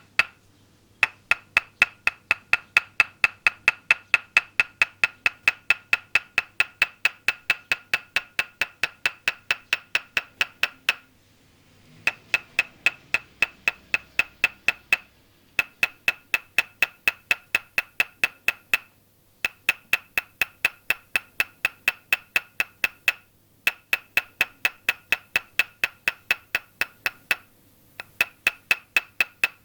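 Toksen massage: a wooden mallet tapping a wooden peg held against the body. It makes an even run of hollow wooden knocks, about four a second, each with a clear ring. The tapping breaks off for short pauses every few seconds.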